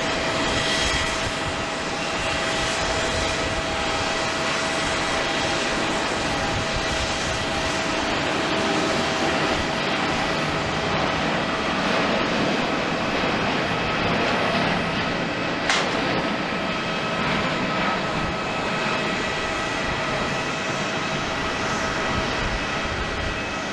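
Jet engines of a Boeing 787-8 Dreamliner running steadily: an even rush with steady whining tones over it. A single short click sounds about two-thirds of the way in.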